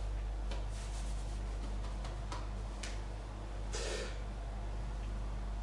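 A steady low electrical hum, with a few faint clicks and one brief rustle a little past the middle.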